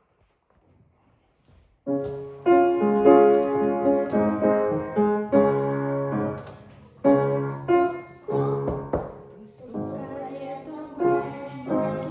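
Near silence, then piano music starts about two seconds in, playing sustained chords and a melody.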